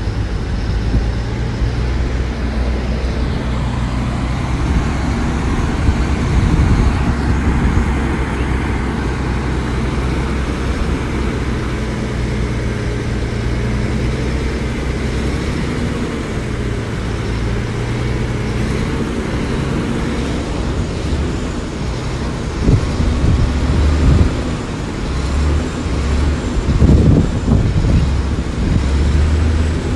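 Heavy diesel engine of earthmoving machinery running steadily under work. About two-thirds of the way through its note changes and it grows louder and rougher, with a few knocks.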